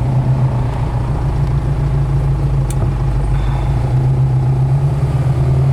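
Chevrolet ZZ3 350 small-block V8 of a 1937 Ford Tudor hot rod running at a steady cruise, heard from inside the cabin, with one faint click near the middle.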